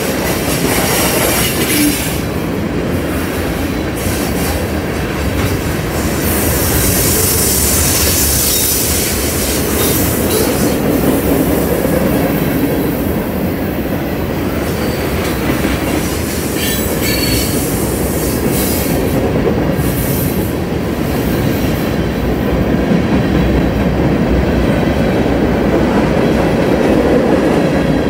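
Freight train's tank cars and covered hopper cars rolling past close by: a steady loud rumble of steel wheels on rail with clickety-clack over the joints. A high-pitched squeal from the wheels rises about six seconds in for a few seconds, and again briefly around sixteen seconds in.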